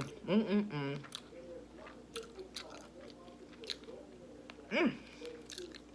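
A person chewing a Popeyes classic fried chicken sandwich, with scattered crunchy clicks throughout. Short hummed vocal sounds come just after the start and again about five seconds in.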